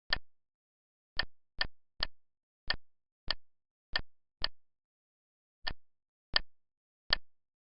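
A series of short, identical clicks with a slight pitched ring, eleven in all at uneven intervals with silence in between, like a recorded interface click sound played on each key or button press.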